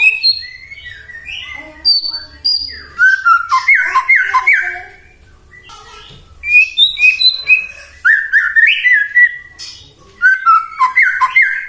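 White-rumped shama (murai batu) singing: phrases of quick whistled notes and glides, broken by two brief pauses.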